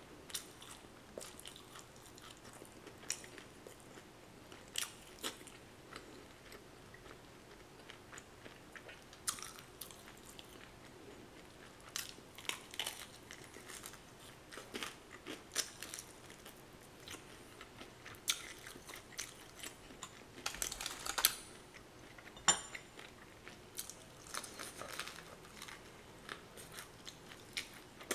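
A person biting and chewing fried chicken, with intermittent crunches of the crisp coating and wet chewing sounds; the loudest run of crunching comes about three-quarters of the way through.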